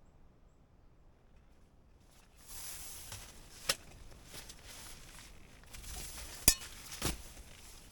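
Handling sounds: a rustling hiss starts about two and a half seconds in, with three sharp clicks or knocks over it, the loudest near the end.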